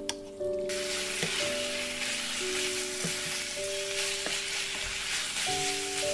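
Gochujang-sauced pork and onions sizzling in a hot frying pan as they are stirred and turned with a wooden spatula, with a few scraping clicks. The sizzling begins abruptly just under a second in.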